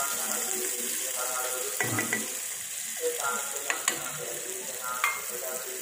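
Onions frying in hot oil in a steel kadai, a steady sizzle, with the metal spatula clinking and scraping against the pan a few times as they are stirred.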